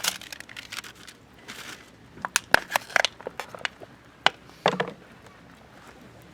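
Wood fire crackling: a run of sharp, separate pops and snaps over a low hiss, with a fuller crunching crackle a little before the end.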